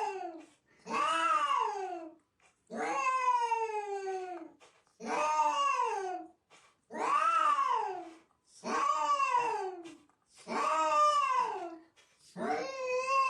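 Cat yowling over and over: long drawn-out meows about every two seconds, each rising and then falling in pitch, one near the start held longer.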